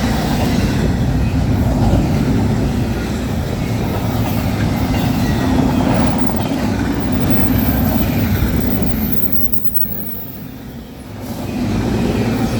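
Freight train cars rolling past: a steady rumble and rattle of steel wheels on rail, which dips briefly about ten seconds in and then rises again.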